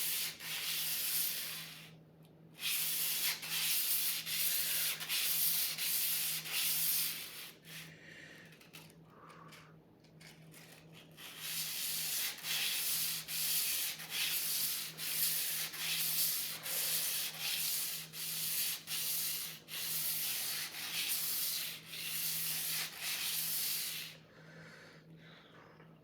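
A sword blade being sharpened: rhythmic rasping strokes of steel against an abrasive, about two a second. The strokes pause for a few seconds partway through, then resume.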